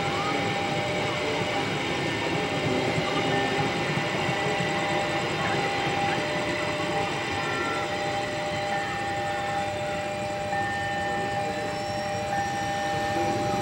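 Electric commuter train rolling past, a steady rumble of wheels on rails, with a steady electronic warning tone from a railway level-crossing alarm sounding throughout; a higher tone comes and goes near the end.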